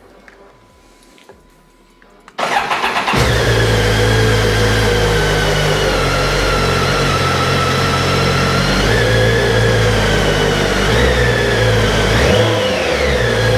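2010 BMW K1300GT's inline-four engine cranked on the starter about two seconds in, catching within a second, then idling steadily. There is a short blip of the throttle near the end.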